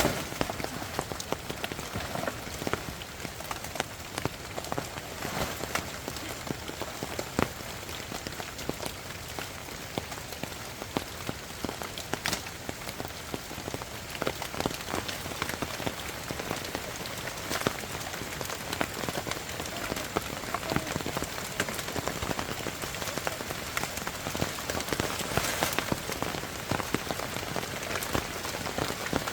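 Rain falling steadily, with many separate sharp drop strikes through the steady wash.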